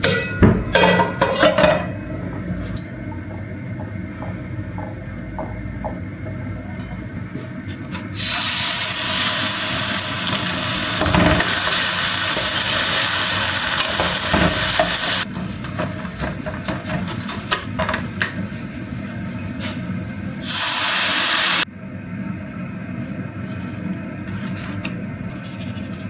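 Kitchen sounds: a few knocks and clatters, then a loud steady rush of running water that starts and stops suddenly after about seven seconds, and comes again briefly near the end, over a low steady hum.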